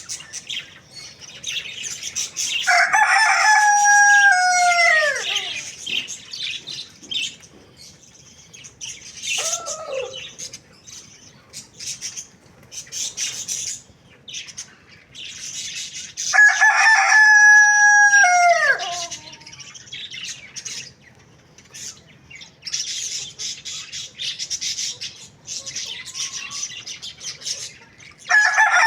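Rooster crowing: two long crows, each sliding down in pitch at its end, a short falling call between them, and another crow starting right at the end. Rapid high chirping of other birds goes on throughout.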